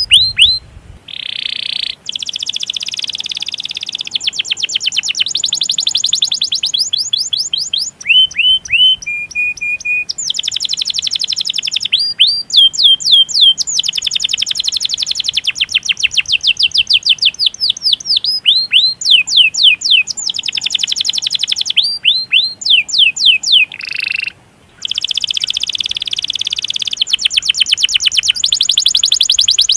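Domestic canary singing long, fast rolling trills of rapidly repeated high notes, broken every few seconds by runs of sharp downward-sweeping 'cuit cuit' chirps.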